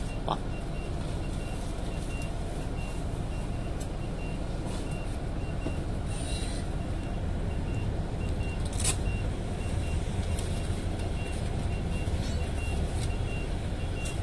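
Steady low engine and road rumble inside a moving vehicle, with a faint high electronic beep repeating in short pulses and a few light clicks.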